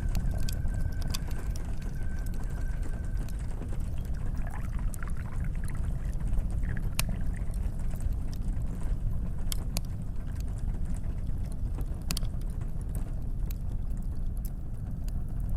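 Wood stove fire crackling, with sharp scattered pops over a steady low rumble. A tea kettle's thin steady whistle cuts off about three seconds in, and a few brief wavering tones follow.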